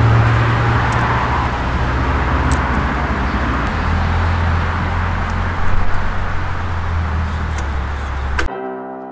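Nissan SR20DET turbocharged four-cylinder engine running at a steady idle, its low pitch dropping slightly a few seconds in. Near the end it cuts off suddenly into soft piano music.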